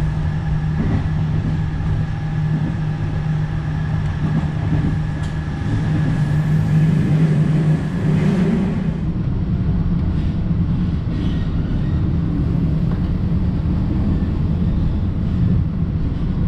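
Inside a moving regional passenger train climbing a mountain grade: steady running noise of wheels on rail with a strong low hum. A fainter high whine stops about nine seconds in, and the noise continues.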